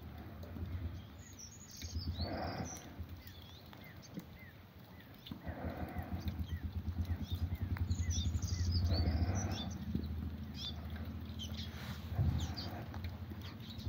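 Small birds chirping in short high calls over a steady low rumble, with a soft broad swell of sound about every two seconds.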